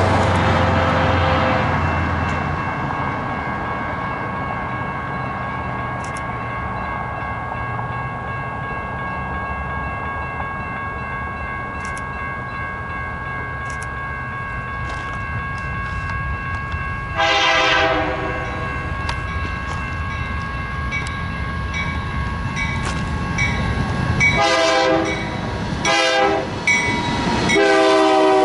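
BNSF diesel freight locomotives approaching and passing, the engines' low rumble steady underneath, while the locomotive's air horn sounds for the grade crossing: one blast at the start, one about two-thirds of the way in, then several close together near the end as the lead unit goes by.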